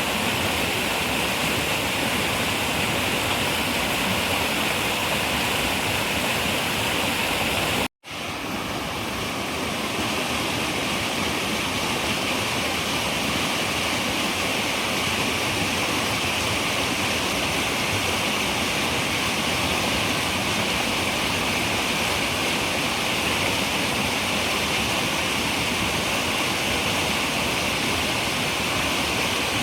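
Running river water rushing steadily. About eight seconds in the sound cuts out suddenly for a split second, then swells back to full over a second or two.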